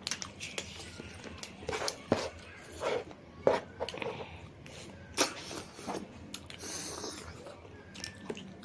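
Close-mic eating sounds from a mukbang: chewing with wet smacks and many short crisp clicks, and a short hiss about seven seconds in.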